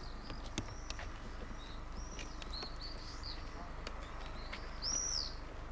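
Small birds chirping: a run of short, high arched chirps, the loudest about five seconds in, with scattered sharp clicks.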